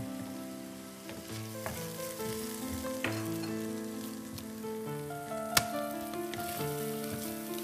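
Leeks and onions sizzling steadily in a frying pan, under soft background music of held notes. A knife blade strikes the plate sharply twice, about three seconds and five and a half seconds in, while cauliflower is being cut.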